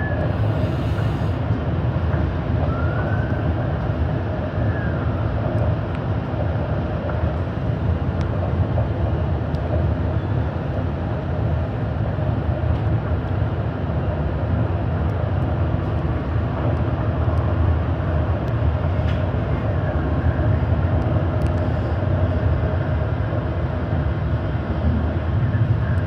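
Steady running noise inside a moving REM light-metro train: an even rumble of wheels on rail and traction motors.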